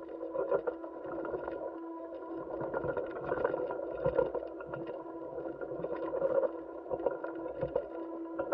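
Steady mechanical hum with a held low tone and fainter higher whines, over a rough hiss with scattered crackles: the background noise in NASA astronaut footage.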